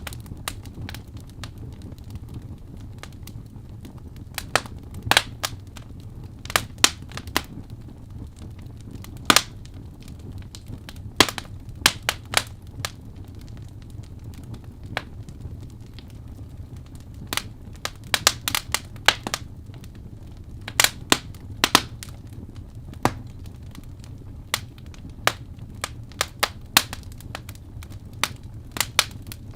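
Wood fire burning in a fireplace: irregular sharp crackles and pops, sometimes in quick clusters, over a steady low rumble of flame.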